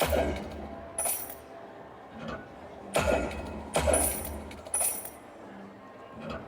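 Video slot machine sound effects during spins: a run of five sudden thuds, each with a bright high ring, spaced about a second apart, over a quieter bed of machine tones.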